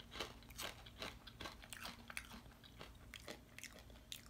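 A person chewing a thin, crisp plantain chip: a steady run of small, sharp crunches, about two or three a second.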